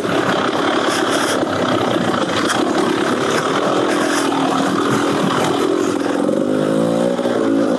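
Beta Xtrainer 300 two-stroke dirt-bike engine, breathing through an FMF Gnarly exhaust, revving up and down as it is ridden along a trail, its pitch rising and falling with the throttle.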